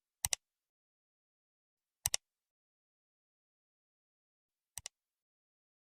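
Three short double clicks, each a pair of sharp ticks, spaced about two seconds apart in otherwise dead silence; the last pair is a little softer.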